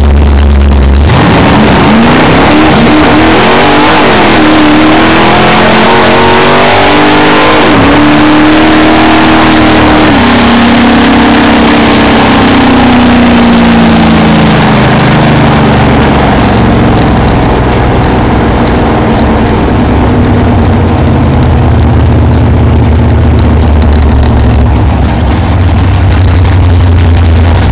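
Drag-race car's engine heard from inside the cabin on a full-throttle pass. It launches about a second in and climbs in pitch, dropping back at two gear changes around four and eight seconds. Around ten seconds in the throttle is lifted and the engine note falls slowly as the car coasts down the track. Very loud throughout.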